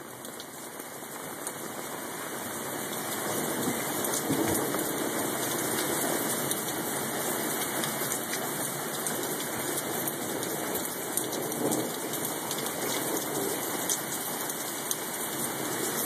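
Heavy thunderstorm rain pouring down, a dense steady hiss with many sharp drop ticks, swelling over the first few seconds and then holding steady.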